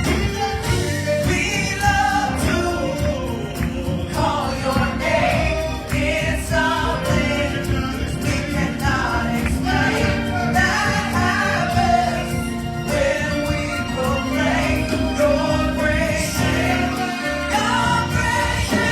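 A gospel choir singing a worship song with live band accompaniment.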